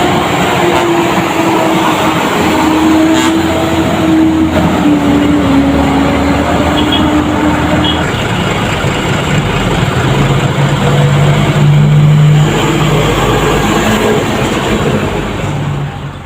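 Heavy road vehicles passing close by with a loud, steady engine drone. One engine tone slowly falls in pitch over the first half, a lower engine tone takes over in the second half, and the sound fades out right at the end.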